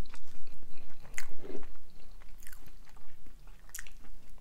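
Chewing of homemade pizza close to the microphone, with scattered sharp mouth clicks and smacks.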